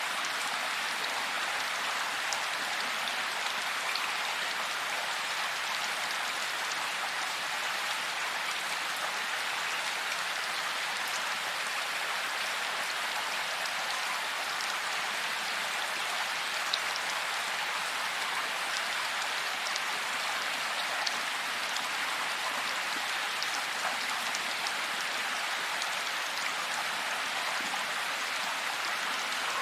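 Steady rain falling: an even, constant hiss with scattered sharper taps of single drops.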